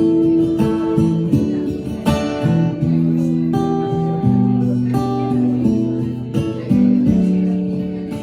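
Acoustic guitar strumming chords in a slow progression, a new chord struck about every half second to a second: the instrumental intro before the singing comes in.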